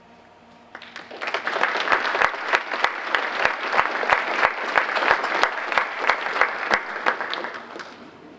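Audience applauding in an auditorium, the clapping building about a second in and fading away near the end.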